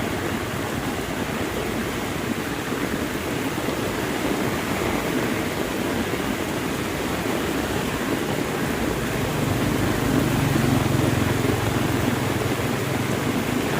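Heavy rain falling steadily. About ten seconds in, a low steady hum joins it.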